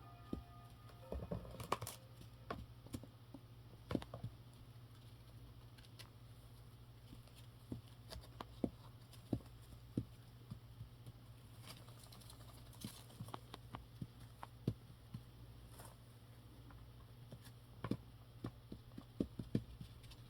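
Scattered light taps and scratches from a young Indian ringneck parrot moving about in its box, over a low steady hum.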